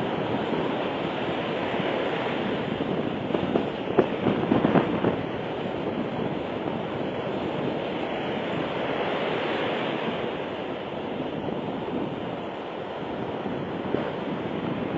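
Sea waves washing and breaking on the shore, with wind on the microphone; the surf grows louder and choppier around four to five seconds in.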